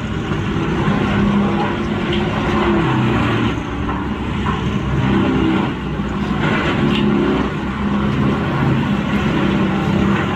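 Vermeer TG5000 grinder's diesel engine running under heavy load while it grinds logs. Its pitch sags and recovers a few times as the wood bogs it down, over a constant grinding and cracking of timber.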